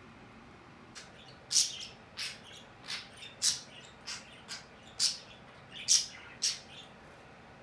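A pet bird giving a run of about ten short, sharp chirps, starting about a second in and stopping near the end.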